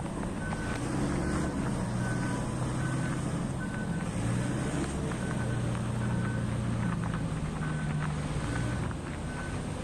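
Heavy mining diesel machinery running, with a back-up alarm sounding short, evenly spaced beeps, about three every two seconds, over the engine.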